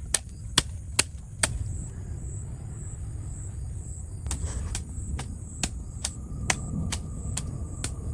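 Sharp knocks in a steady rhythm, about two a second, pausing for a few seconds and starting again about four seconds in, over a low rumble and a steady high whine.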